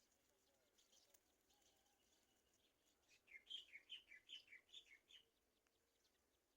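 A bird calling a quick run of about ten short chirps, each dropping in pitch, lasting about two seconds from roughly halfway through, over faint scattered high chirps.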